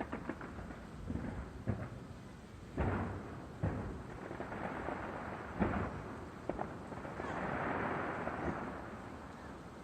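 Fireworks going off: a series of sharp booms and smaller pops, the loudest about three seconds in and again just before the six-second mark, followed near the end by a spreading crackle.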